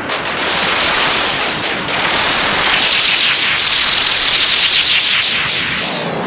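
Eurorack modular synthesizer 'laser' zaps fired in rapid succession through a Make Noise Erbe-Verb reverb. The quick strikes blur into a dense wash of reverb tails that builds brighter midway, then thins out near the end.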